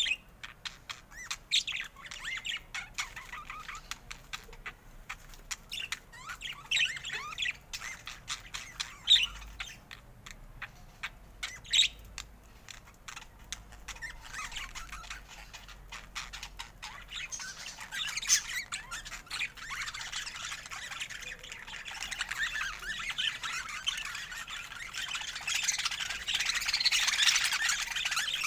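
Budgerigars chattering, with quick chirps and squawks that thicken into a denser, louder warbling chatter in the second half.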